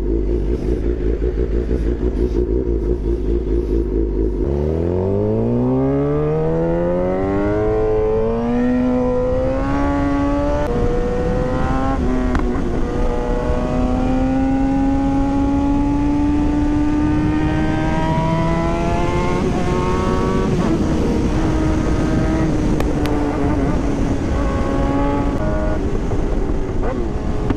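2022 Suzuki GSX-R 750 inline-four through a Black Widow full exhaust with a Moore Mafia ECU flash. It runs steadily at low revs, then about four seconds in pulls hard, revving up through the gears with quick upshifts. A long climb in a higher gear follows, and the rider rolls off the throttle about two-thirds of the way through, the revs falling away.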